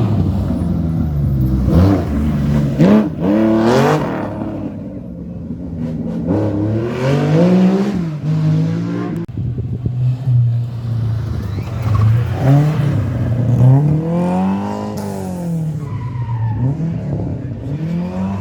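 Historic rally car engine revving hard on a special stage, its pitch climbing and dropping again and again with throttle lifts and gear changes.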